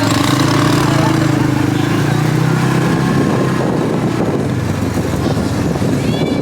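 ATV engine running steadily while riding, its pitch rising and falling a little.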